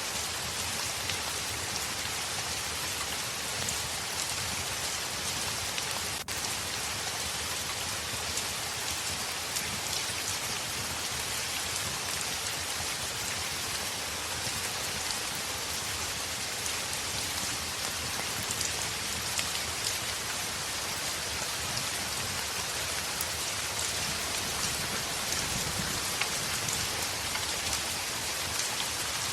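Heavy rain falling on a window, a steady dense patter of drops with fine ticks throughout, briefly dipping about six seconds in.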